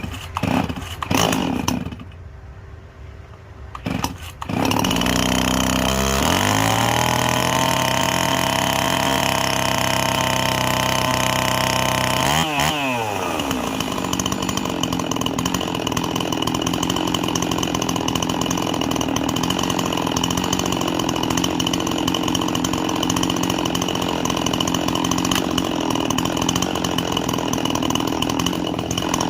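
Stihl 026 two-stroke chainsaw cold-started with the choke on: a couple of starter-rope pulls, then the engine catches about four seconds in and runs at a fast idle. About halfway through the speed drops and it settles into a rougher idle with a ringing from the clutch.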